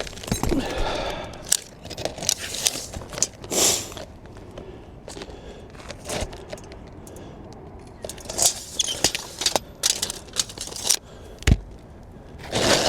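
Irregular rustling, scraping and crackling as a loose, brittle old three-tab asphalt shingle is handled and measured, with scattered clicks and one sharp knock near the end.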